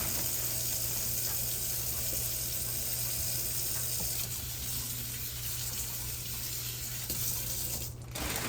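Kitchen tap running into the sink, a steady splashing hiss of water while salad greens are rinsed; it stops suddenly near the end.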